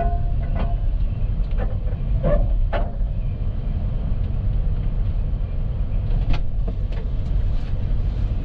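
Strong wind buffeting the microphone in a steady, heavy low rumble, with a few sharp knocks and clatters scattered through it.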